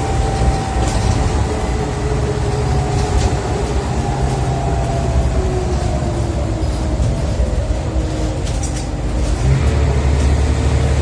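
Scania OmniCity bus heard from inside: the engine's deep rumble under a ZF automatic gearbox whine that falls slowly in pitch as the bus slows, then the engine picks up again near the end.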